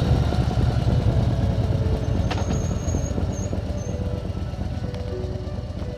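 Motorcycle engine running while riding, a pulsing low rumble that gradually eases off. A thin high whistle sounds briefly partway through.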